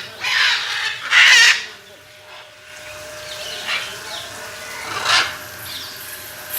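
Parrots squawking: two loud, harsh screeches in the first second and a half, then fainter squawks about four and five seconds in.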